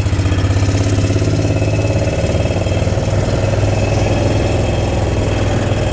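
Engine of a slow-moving vehicle running steadily, a low hum that rises a little in pitch within the first second and then holds even.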